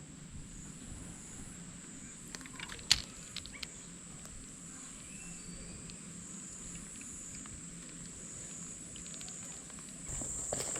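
Steady high-pitched insect chorus of rainforest insects, growing louder about ten seconds in, with a few faint sharp clicks and taps about two to three seconds in and again near nine seconds.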